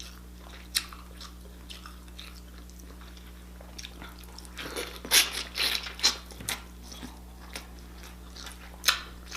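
Close-miked eating of crab or lobster meat: chewing and mouth sounds with scattered sharp clicks, busiest around the middle. A steady low hum lies underneath.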